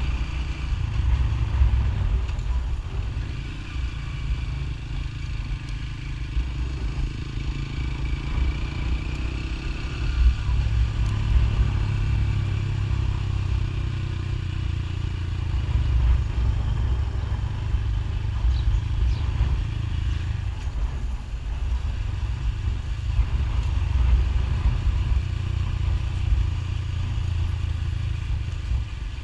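Motorcycle being ridden: steady engine noise with heavy rumble on the microphone that rises and falls a little, with no sharp breaks.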